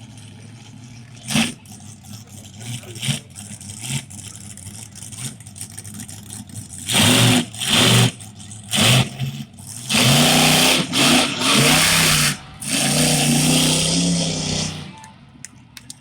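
Monster truck engine revving hard in repeated loud bursts, starting about seven seconds in after a quieter stretch, the pitch rising and falling with each burst.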